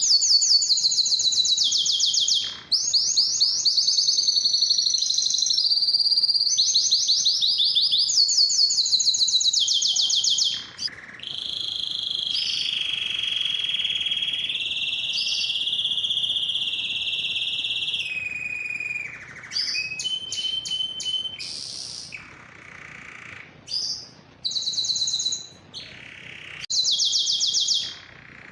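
Male domestic canary singing: fast trilled phrases, a long steady whistled note in the middle, then shorter trills broken by brief pauses near the end.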